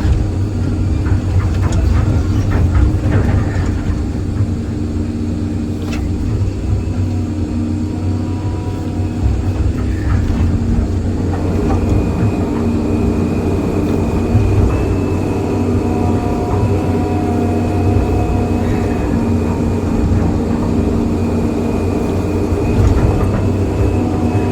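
Excavator's diesel engine running steadily under load, with a thin high hydraulic whine joining about halfway through and a few faint knocks.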